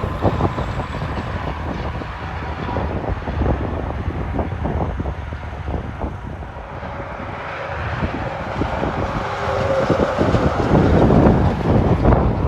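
Road traffic passing with wind buffeting the microphone. A vehicle grows louder over the last few seconds as it approaches.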